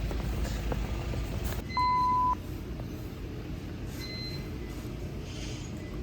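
A single steady electronic beep, one pure tone lasting about half a second, starting about two seconds in, over a low background rumble. Two fainter, higher beeps follow later.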